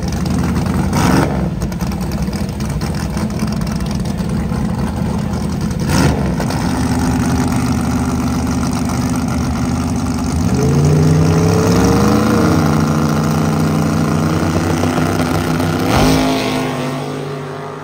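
A loud drag-race car engine idles and runs rough at the starting line. Sharp cracks come about a second in and again at six seconds, and a whine rises and then holds for a couple of seconds around ten seconds in. Near the end a last crack comes with the car's launch as the green light comes on, and the sound then fades away.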